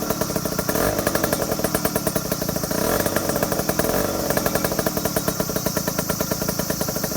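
Suzuki Address V100 scooter's single-cylinder two-stroke engine running steadily through an aftermarket straight expansion-chamber exhaust, with a rapid, even exhaust pulse.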